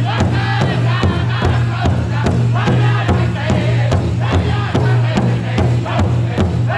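Powwow drum group singing together over a big drum struck in a steady, even beat.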